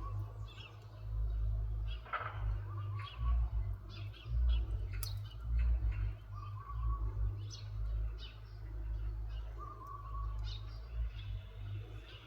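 A bird's short trilled call repeats every two to three seconds, with scattered higher chirps, over a loud low rumble.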